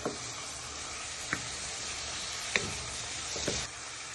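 Chicken, vegetables and spices frying in a pan: a steady sizzle, with four sharp knocks of a spoon against the pan as it is stirred. The sizzle eases slightly near the end.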